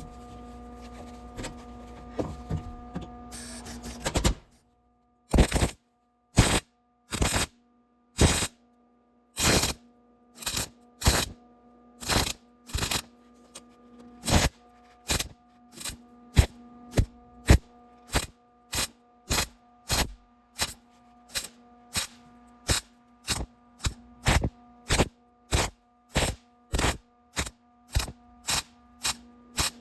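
Hammer pounding on the rusty sheet-metal floor pan and body of a 1987 Toyota 4Runner: a long run of sharp, even blows starting about five seconds in, at one to two a second and getting quicker. A steady hum runs underneath.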